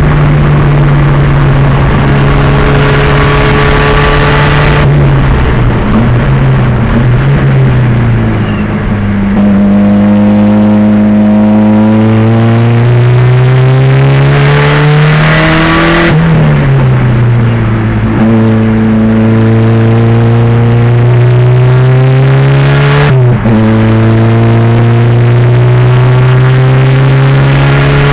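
Race car's turbocharged 2.0-litre engine running hard on track. The revs hold high, fall away, then climb repeatedly, with a sharp drop in pitch at each gear change.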